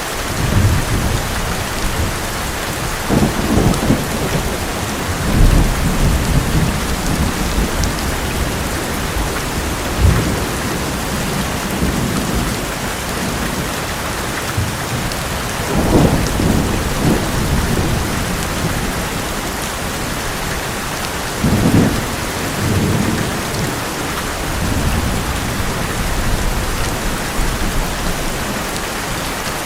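Heavy rain drumming steadily on an old metal roof, with rolls of thunder rumbling low several times, the strongest about halfway through and again about two-thirds of the way in.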